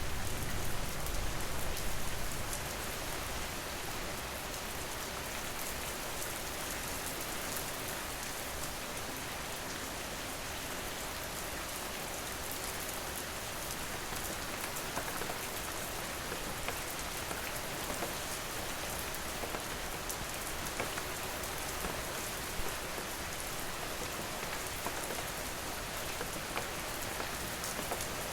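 Steady rain falling, an even hiss with many small drop ticks, a little heavier with more low rumble in the first two seconds.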